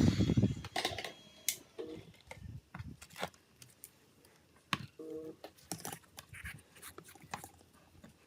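Scattered light clicks and taps of small hard parts and tools being handled, with two short squeaks about two and five seconds in.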